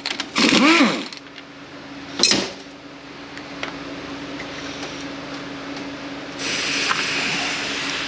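A cordless power tool on a bolt, its motor whirring briefly up and down in pitch, then a sharp clank about two seconds in, over a steady low hum; a hissing noise sets in near the end.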